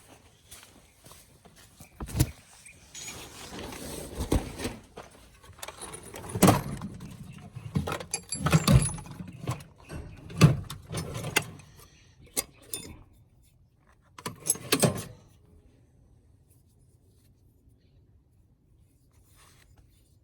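Metal hand tools, such as wrenches, clinking and clattering as they are rummaged through. Irregular sharp clanks with bright metallic ringing run from about two seconds in until about fifteen seconds in.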